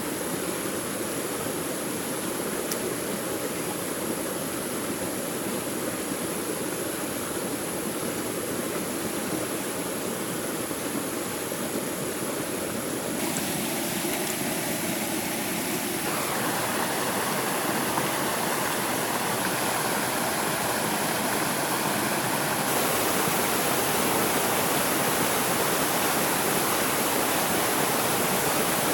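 Rushing stream water, a steady hiss of flowing water whose character shifts abruptly a few times and grows slightly louder toward the end.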